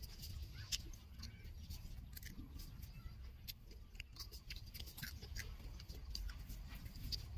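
A child biting and chewing a raw cucumber: a run of irregular crisp crunches and clicks.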